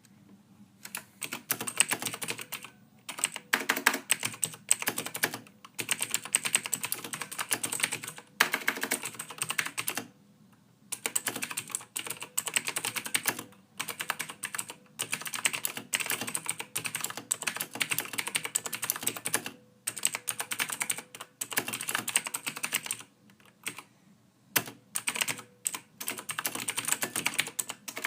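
Typing on a computer keyboard, soft keystrokes in rapid runs of a few seconds with short pauses between them.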